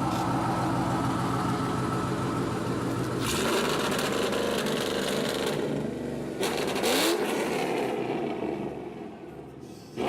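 Straight-piped 2010 Ford Mustang GT's 4.6-litre V8 with long tube headers, its exhaust running loud and revving as the car drives up. It gets louder about a third of the way in, surges briefly past the middle, then fades near the end.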